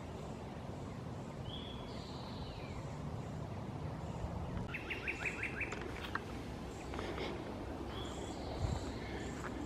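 Woodland birds singing: a whistled call that slides downward, heard twice, a quick run of about seven short notes midway, and faint high repeated peeps, over a steady low rumble. Near the end come a few footsteps on a dirt trail.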